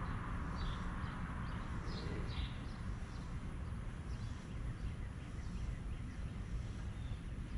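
A small bird chirping repeatedly outdoors, one short rising call about once a second, over a steady low background rumble.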